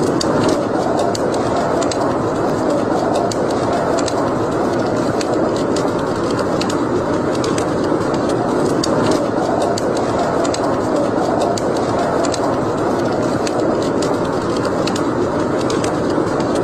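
Wood fire burning in a fireplace: a steady rushing hiss of flames with frequent small, sharp crackles and pops of the burning wood.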